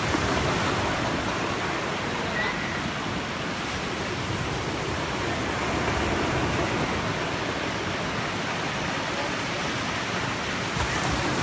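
Sea waves washing on a beach: a steady rushing noise.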